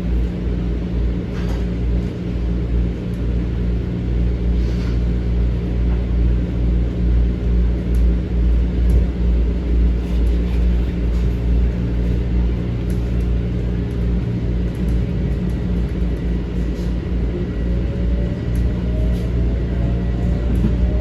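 Inside a Metro-North M7 electric railcar under way: a steady low rumble of wheels on rail with a constant hum. Near the end a faint whine rises in pitch as the traction motors pick up speed.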